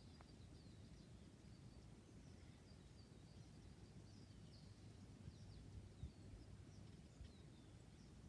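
Near silence: faint outdoor ambience with small birds chirping, many short high chirps over a low steady rumble.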